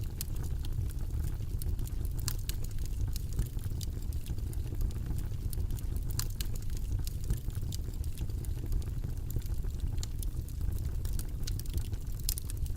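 Steady, deep white-noise background with light, irregular clicks scattered through it.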